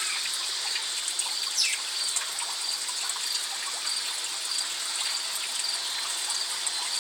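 Steady trickle of running water, with faint high chirps repeating about twice a second.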